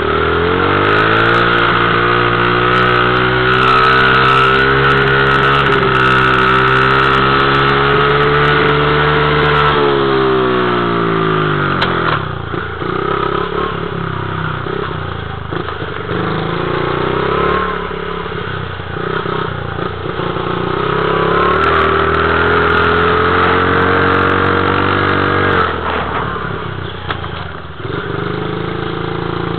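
Dirt bike engine revving up as the bike pulls away, holding high revs for about ten seconds, then dropping off. It varies, climbs again and eases off near the end.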